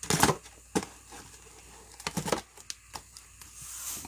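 Sealed trading-card packs being shuffled and handled by hand: irregular rustles and sharp clicks of the wrappers and packs knocking together.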